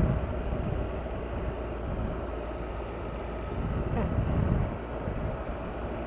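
Triumph Tiger 1200's three-cylinder engine running steadily while riding on the move, with wind noise over the microphone.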